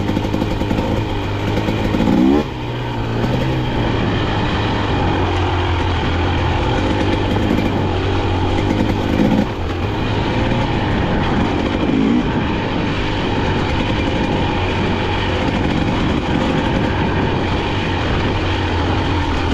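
Two-stroke engine of a KTM 250XC-W dirt bike running while being ridden, loud and fairly steady, with a few brief changes in revs.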